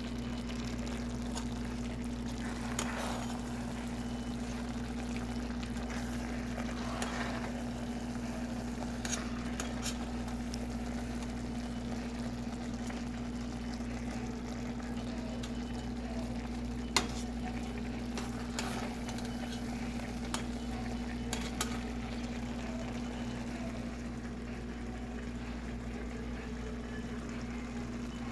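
Food cooking in a pot on the stove, with a light sizzle over a steady hum. A few sharp clinks of a utensil against the pot come through, the loudest about seventeen seconds in.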